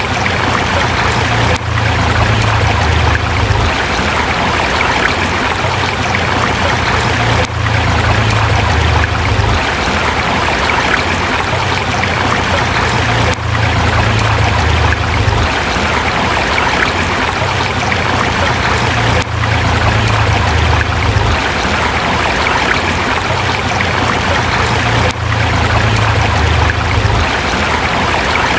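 River water rushing steadily. It is a short recording repeating about every six seconds, with a brief dip in level at each repeat and a low rumble that swells and fades with it.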